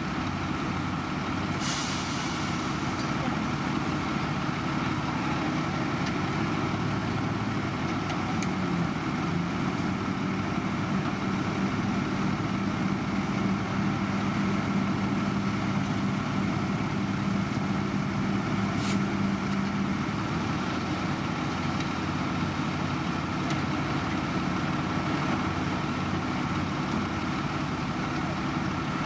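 Heavy diesel road-construction machinery running steadily, with a short hiss of air about two seconds in. A steady hum joins the engine noise from about nine seconds and stops about twenty seconds in.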